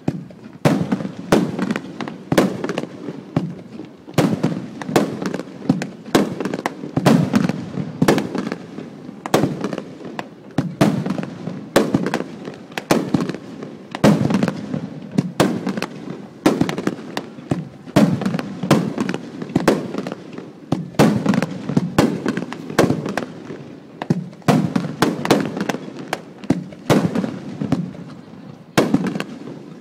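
Aerial fireworks bursting in rapid succession: a dense string of bangs and crackles, several a second, with rolling echoes between them.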